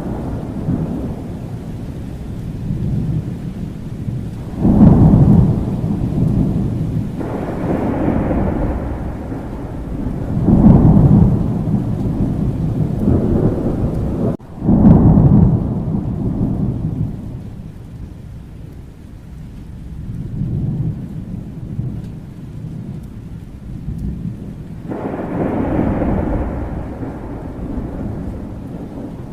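Thunderstorm: steady rain with rolling thunder rumbling again and again, loud rolls swelling about five, ten and fifteen seconds in and another near the end. There is a brief break in the sound just before the third roll.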